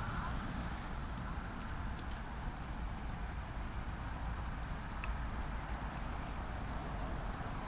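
Wood fire crackling: a few sharp, scattered pops over a steady hiss and low rumble.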